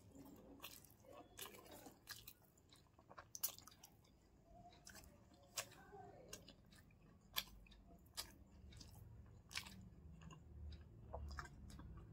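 Faint wet chewing of soft, syrup-soaked gulab jamun and rasgulla, with scattered small sharp mouth clicks about once a second.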